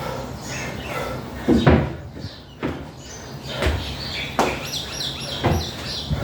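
Feet thudding on and off a 20-inch box in a rough rhythm of about one step a second during dumbbell box step-ups, with birds chirping through the middle.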